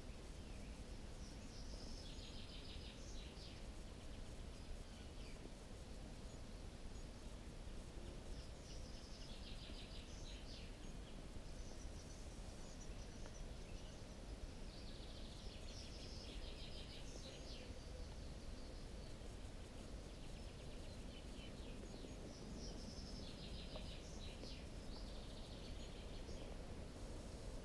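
A bird singing a short, rapid trilled phrase four times, about every seven seconds, faint over a steady low hiss of outdoor background noise.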